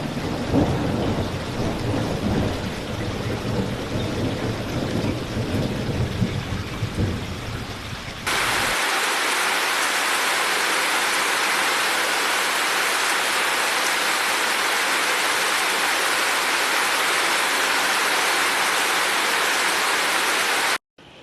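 Rain falling with a low, uneven rumble for about the first eight seconds. It then cuts abruptly to a loud, steady hiss of heavy rain, which stops suddenly near the end.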